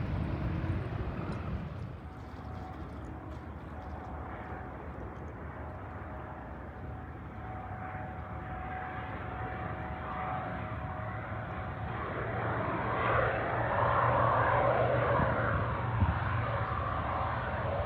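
Small propeller plane's piston engine running steadily, growing louder over the second half as the plane comes closer, then easing off slightly near the end. A single sharp tick about two seconds before the end.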